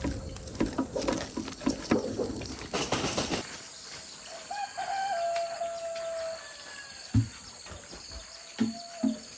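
Noisy splashing-like sound with many clicks, cutting off about three seconds in to a quieter rural scene: a steady high insect drone, a long bird call that wavers and then holds one pitch, a fainter call later, and three dull knocks near the end.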